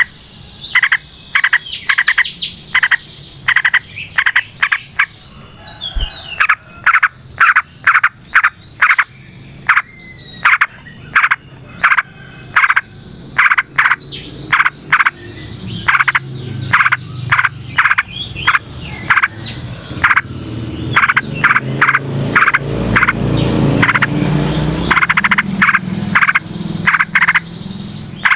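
Frogs calling in quick, evenly repeated sharp notes, about two or three a second, mixed with sooty-headed bulbul (trucukan) song, with a low hum swelling about two-thirds of the way through.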